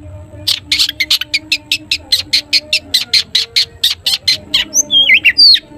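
Long-tailed shrike (cendet) singing: a fast run of short, sharp 'toet' notes, about six a second, then a brief warbling phrase of gliding notes near the end.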